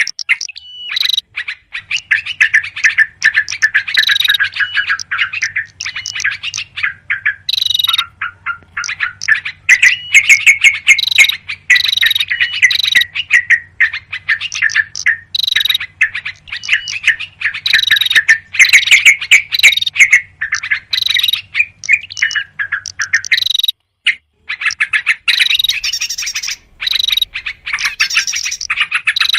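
Agitated, dense chattering of yellow-vented bulbuls mixed with other small songbirds, many fast overlapping chirps and trills with abrupt cuts: a bird-lure call recording. A faint low hum runs under it until about three-quarters of the way through.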